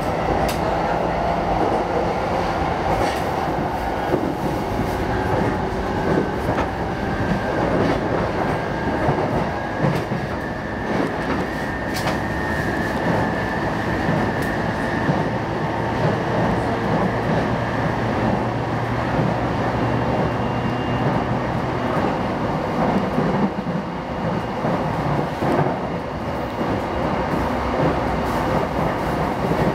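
JR East E233-5000 series electric train running: a steady rumble of wheels on rail with a few scattered clicks and a faint high whine around the middle.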